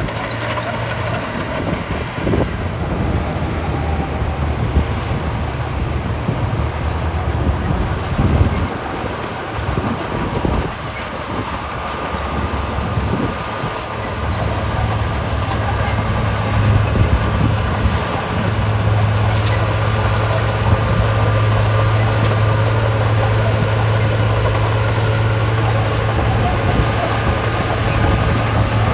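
Komatsu D41P crawler bulldozer's diesel engine working under load, a steady low drone with irregular clanks in the first half. The drone gets louder about halfway through and then holds steady.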